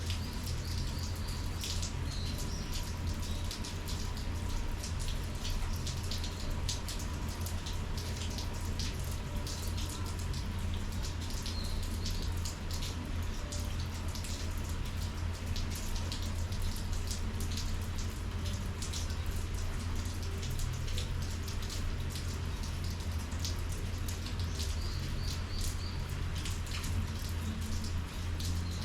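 Rain falling steadily, with many separate drops ticking close by, over a constant low hum.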